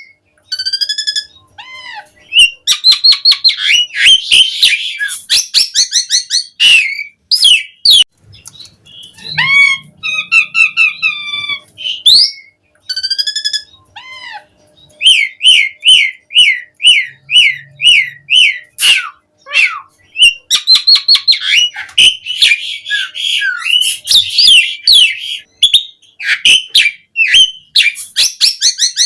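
Asian pied starling (jalak suren) singing loudly in long, varied bouts of whistles, chirps and rapid chattering phrases. About halfway through comes a string of repeated down-slurred whistles, and there are short pauses between bouts.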